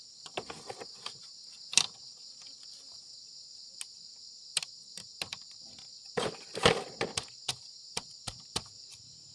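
Steady chorus of crickets, with scattered sharp clicks and knocks throughout and a louder cluster of knocks about six to seven seconds in.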